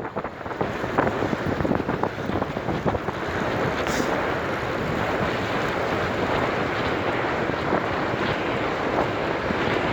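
Wind rushing and buffeting over the microphone on a moving bicycle. It grows over the first few seconds as the bike picks up speed, then holds steady.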